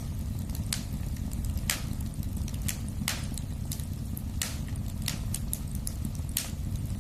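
Wood fire in a fireplace burning with a low steady rumble and irregular sharp crackles and pops, about one or two a second.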